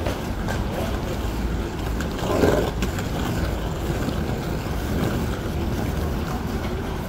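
Steady low rumble and hiss of a moving train car heard from inside, with a few faint clicks.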